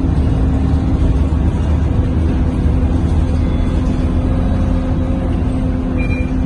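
Scania K230UB bus's diesel engine running steadily, with a low rumble and steady drone heard from inside the passenger cabin. A brief high squeak sounds near the end.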